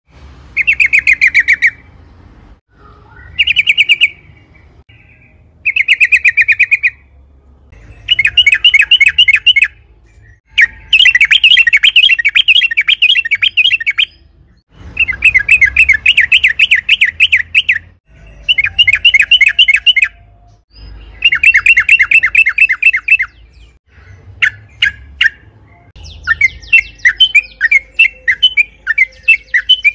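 Yellow-vented bulbul (trucukan) singing: repeated bursts of rapid bubbling notes, each burst one to three seconds long with short pauses between, breaking into shorter separate calls near the end.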